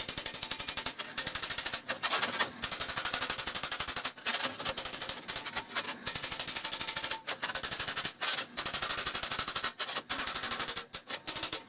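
Rapid, even hammer blows on sheet metal, broken by a few short pauses: the edge of a cut opening being tapped into shape so that an angled glass pane will fit.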